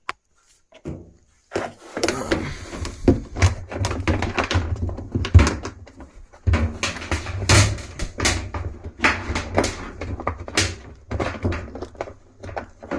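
Irregular knocks, clunks and scraping from hands working a new suspension spring into place inside a top-load washing machine's cabinet, starting about a second and a half in and continuing steadily.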